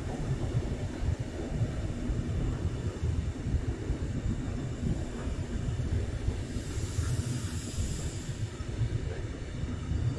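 A train running past on the rails: a steady low rumble of wheels and running gear, with a brief hiss that rises and fades a little over six seconds in.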